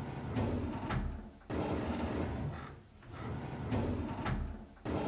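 A drawer sliding open on its runners: a rumbling scrape ending in a sharp click, repeated about every three seconds, with a new pull starting about one and a half seconds in and another near the end.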